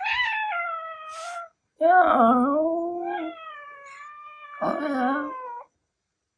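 Ragdoll cat yowling angrily: three long drawn-out wails, the first higher and falling in pitch, the later two deeper and wavering.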